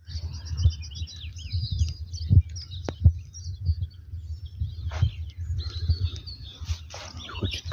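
Small birds chirping and twittering in quick runs of short notes, busiest at the start and again near the end. Under them run low knocks and rumbling, with the loudest knocks in the first few seconds.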